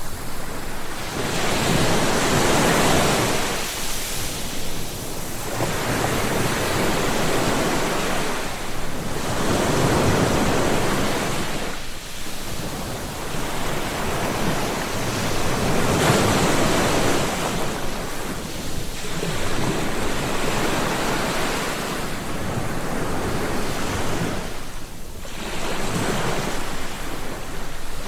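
Sea waves breaking and washing on a shore in repeated surges, a swell of surf every four seconds or so followed by a brief lull.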